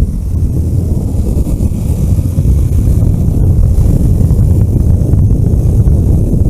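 A vehicle driving on the road, a steady loud low rumble of engine and road noise.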